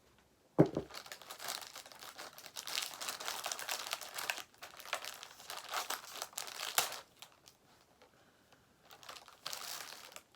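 Cookie packaging crinkling and rustling as it is handled and opened, with a sharp knock about half a second in and a brief lull before more crinkling near the end.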